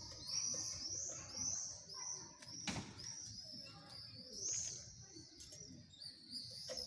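A small bird chirping over and over, high arched chirps about two a second, with one sharp knock about three seconds in.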